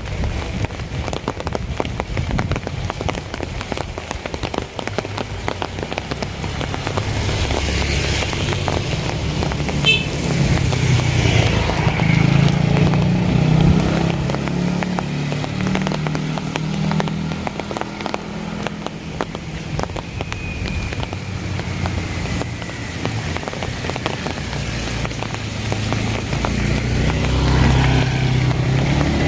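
Steady rain pattering, with a motor vehicle's engine running alongside it. The engine grows louder from about a quarter of the way in, is loudest around the middle and swells again near the end.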